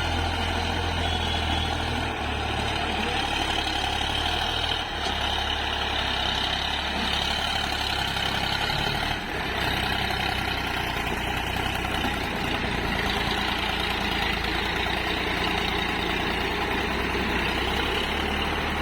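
Heavy diesel engine running steadily, its tone shifting slightly a few times.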